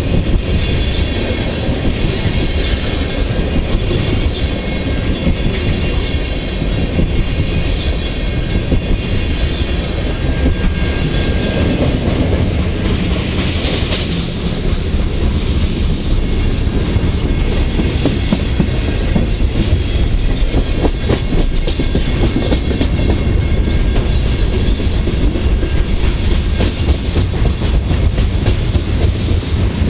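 Manifest freight train rolling past: a steady heavy rumble of wagons, with wheels clicking over the rail joints and a faint high squeal from the wheels.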